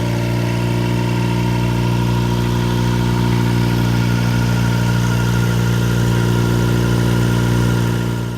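Viking 110 engine in a Cherry light aircraft running steadily at a low, even speed with no change in revs, then cutting off abruptly at the very end.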